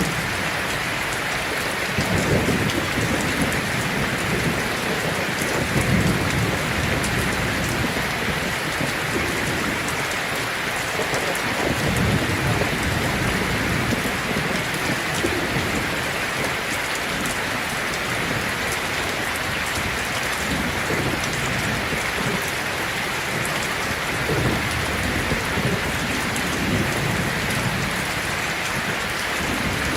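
Heavy rain falling steadily on a tin roof, with low rolls of thunder swelling up every few seconds.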